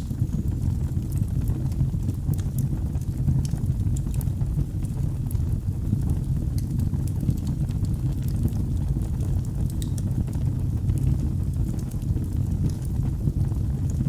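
Wood fire burning in a fireplace, with scattered sharp crackles and pops over a steady low rumble of the flames.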